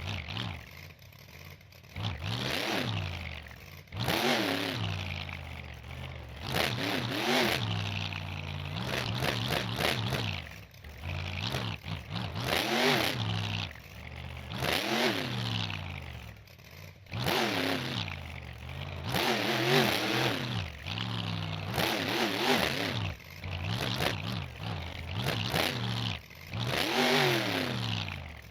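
Monster truck's V8 engine revving hard in repeated bursts, its pitch climbing and falling every couple of seconds as the throttle is blipped and released.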